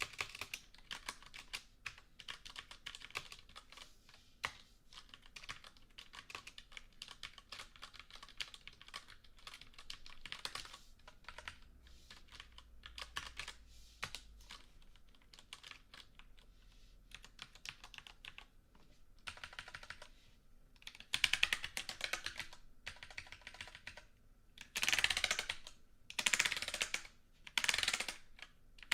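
Computer keyboard being typed on: a steady patter of keystroke clicks, then in the last third several louder runs of rapid keystrokes, each lasting about a second.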